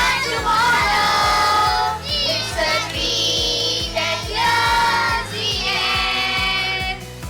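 Children singing a song over backing music with a steady beat.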